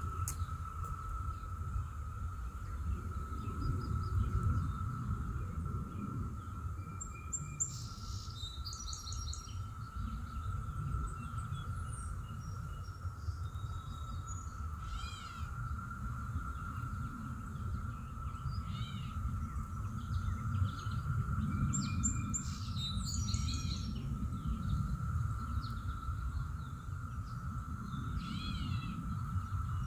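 Birds chirping and calling on and off, with a few quick up-and-down calls around the middle and near the end, over a steady high-pitched hum and a constant low rumble.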